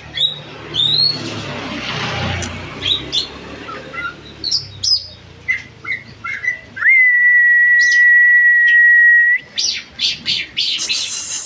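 Cage birds, a greater green leafbird (cucak ijo) and a lovebird, chirping with quick whistled notes and rising and falling calls. About seven seconds in comes one long, steady, held whistle lasting over two seconds, then more rapid chirps.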